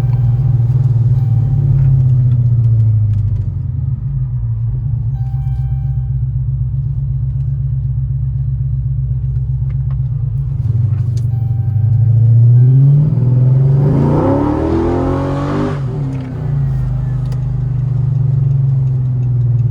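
Car engine running at a steady low drone, then revving up and back down once about two-thirds of the way through.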